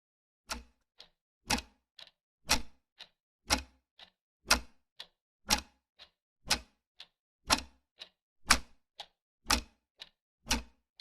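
Camera shutter clicking over and over at an even pace: a sharp, louder click about once a second, each followed half a second later by a softer click.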